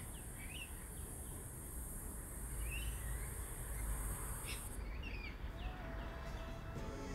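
Faint birds chirping and whistling a few times, scattered short calls over a low rumble and a steady high hiss that cuts off about two-thirds of the way in.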